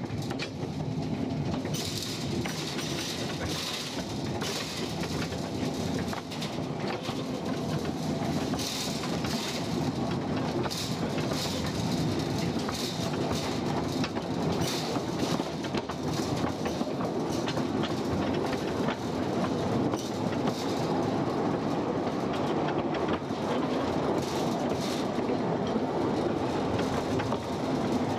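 Narrow-gauge mine railway train running along its track: a steady wheel rumble with clicking over the rails and repeated short high squeaks.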